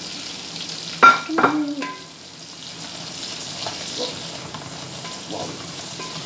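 Onion, lemongrass and chili sautéing in a pan, a steady sizzle as they are stirred. A couple of sharp clatters from the plate or utensils about a second in.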